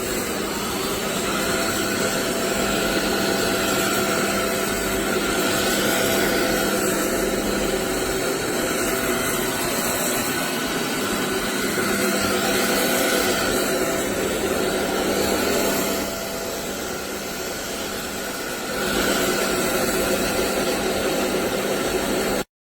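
Roborock Dyad Pro cordless wet-and-dry vacuum running steadily, a loud motor and airflow noise with a steady whine. It softens for a few seconds about two-thirds of the way through, then cuts off abruptly near the end.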